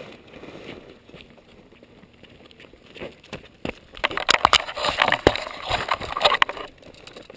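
Loud crackling and rustling right against the microphone for about three seconds, starting about four seconds in, after a fairly quiet stretch.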